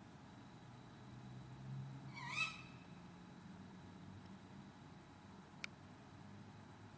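One short, sharp, rising screech from an owl, about two seconds in, which the uploader takes for a tawny owl. A single sharp click follows later.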